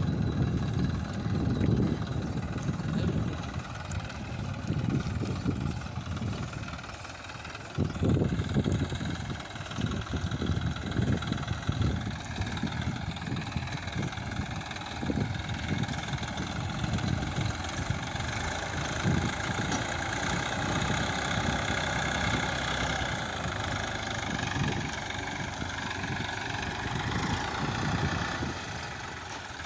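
Massey Ferguson tractor's diesel engine running, its low throb rising and falling unevenly and getting louder about eight seconds in.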